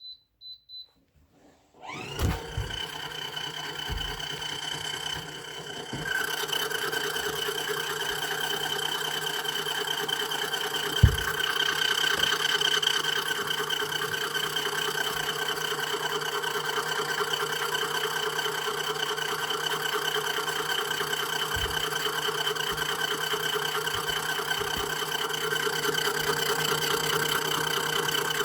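Mini washing machine starting a spin: three short high beeps, then the spin motor whirs up about two seconds in and runs at a steady pitch, growing louder around six seconds in, with an occasional knock from the drum.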